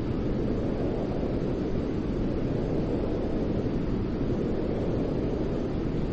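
Steady white noise: an even, unchanging rush with no rhythm or change, weighted toward the low end so it sounds deep rather than hissy.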